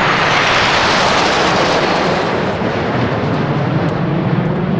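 Jet aircraft passing overhead: a loud roar whose higher hiss dies away after about two seconds, leaving a lower rumble.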